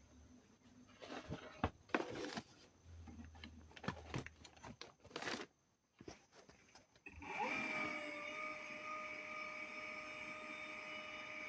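A few knocks and clicks of handling, then about seven seconds in the electric motor of a Kawamoto JF250S well pump starts, its whine rising quickly and then running steady. The seller describes the running motor as making an abnormal noise.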